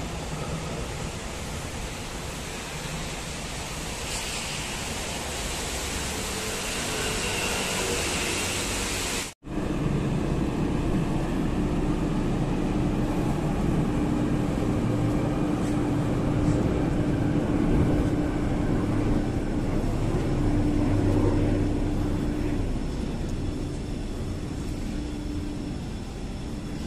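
Steady running noise of a moving vehicle, most likely a train in motion. The recording cuts off abruptly about nine seconds in, and a steady run with a low, even hum resumes.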